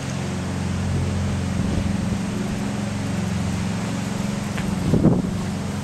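Steady low machine hum, like a motor or engine running, with one brief louder sound about five seconds in.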